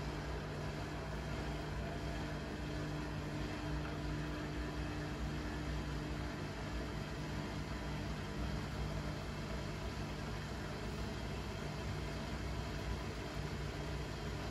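Blomberg fuzzyDigitronic Granat 3200 washing machine running, a steady motor hum and whirr that holds an even pitch throughout.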